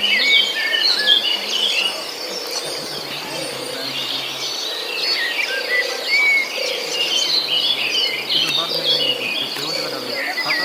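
Many small birds chirping and twittering at once: a dense, continuous chorus of short high chirps and whistles.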